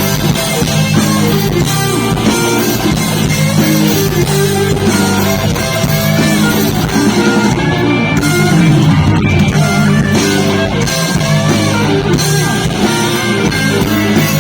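Rock band playing live: an improvised electric guitar solo with bent, sliding notes over bass and drums.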